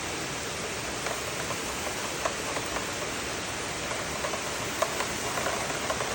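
Heavy rain pouring down: a steady hiss with scattered sharp drop splashes.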